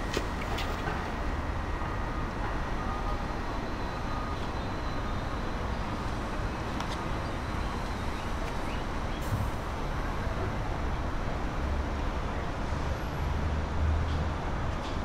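Steady city background noise: an even low rumble of distant traffic, with a few faint clicks.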